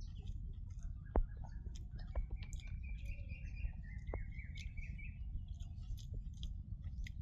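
Close-up chewing and mouth sounds of someone eating, with scattered sharp clicks. A bird calls in the background with one long wavering call from about one to five seconds in.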